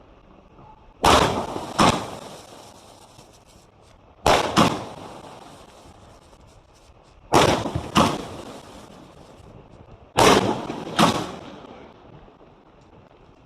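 A multi-shot sky-shot firework cake firing: sharp bangs in close pairs, four pairs about three seconds apart, each bang trailing off in a short echo.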